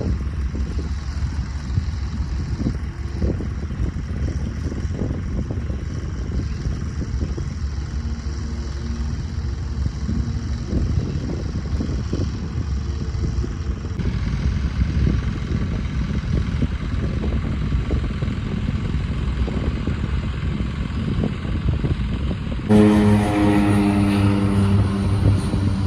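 Propeller aircraft engines running, heard as a low rumble with gusty wind noise on the microphone. About 23 s in the sound jumps to a louder, steady propeller drone.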